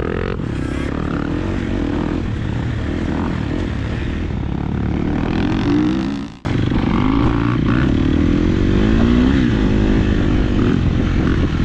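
Motocross bike engines running and revving, their pitch rising and falling as the throttle opens and closes. The sound cuts out abruptly for a moment about six seconds in, then resumes.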